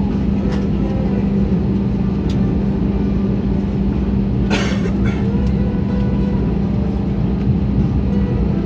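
Jet airliner cabin noise: a steady engine rumble with a strong low hum throughout. About halfway through there is a brief hiss, with a few faint clicks.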